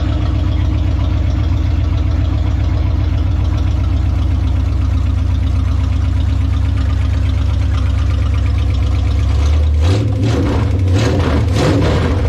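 Freshly swapped V8 engine in a 1969 Plymouth Valiant idling steadily on its first run after the swap. About ten seconds in its note shifts and turns rougher and more uneven.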